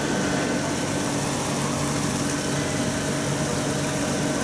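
Steady mechanical hum: a constant low drone with a few fixed tones over an even hiss, like a motor or pump running.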